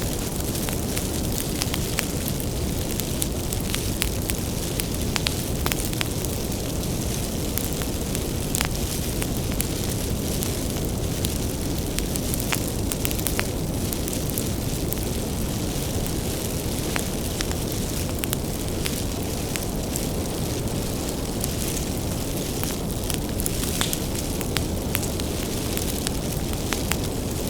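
Wood fire burning steadily: a low, even rumble of flames with frequent irregular crackles and pops from the burning firewood.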